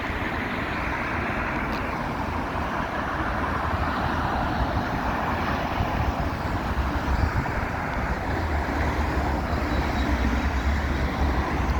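Steady rush of passing road traffic on wet roads, with a low wind rumble on the microphone.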